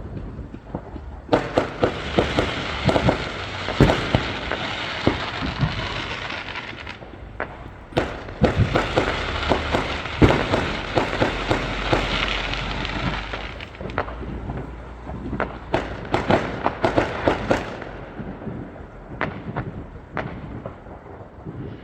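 Fireworks going off: two long spells of dense crackling and popping, a few seconds each, with scattered sharp bangs between and after them.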